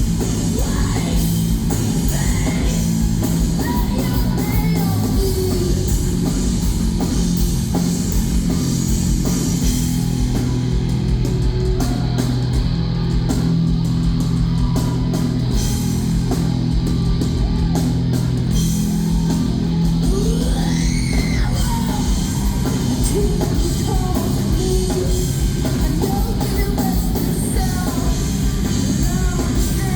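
Live heavy rock band playing loud and steady: guitars and drum kit, with sung and yelled vocals.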